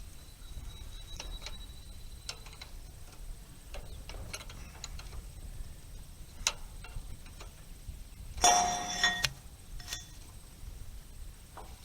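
Hand tools on the hay rake's bolts: scattered metallic ticks and clicks while the nuts are worked loose, with a louder burst of ringing metal clatter about eight and a half seconds in.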